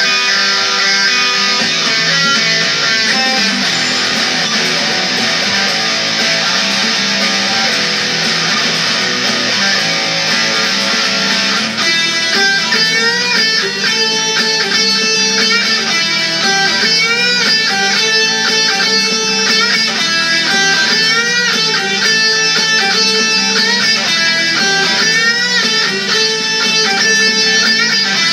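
Electric guitar playing a rock song with full band accompaniment, strummed chords at first. About twelve seconds in the sound changes to clearer single notes that bend in pitch.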